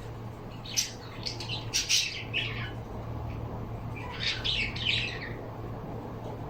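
Pet birds squawking in two bursts of harsh calls, one starting about a second in and another about four seconds in, over a steady low hum.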